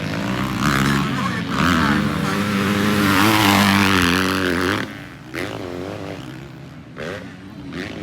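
Motocross bike engine revving hard, its pitch and loudness climbing for several seconds and peaking about three to four seconds in. It drops away suddenly near five seconds, and quieter engine sound follows.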